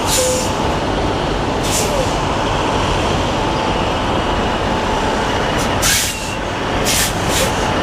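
Semi truck's diesel engine running with a steady rumble, with a few short hisses about 2, 6 and 7 seconds in.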